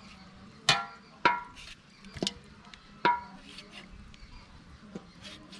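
Knife clinking against the dish while slits are cut into raw chicken leg pieces: four sharp clinks with a short ring, spread over about two and a half seconds.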